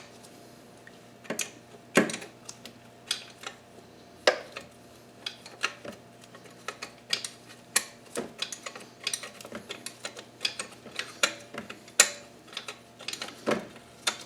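Hand tools working a bolt into an engine's timing cover: irregular metallic clicks and clinks, some in quick runs, over a faint steady hum.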